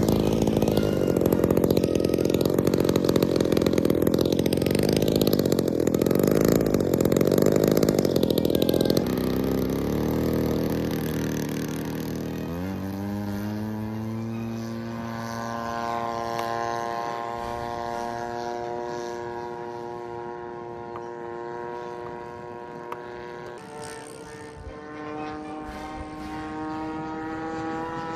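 Single-cylinder DLE-55 two-stroke gas engine of a large RC Spitfire model running. It is loud and close for about the first nine seconds, then rises in pitch about halfway through to a steady, fainter high drone, which steps up again near the end.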